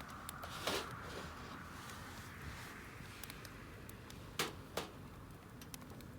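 A few sharp clicks and knocks, two of them close together near the end, over scattered small ticks and a faint steady hiss.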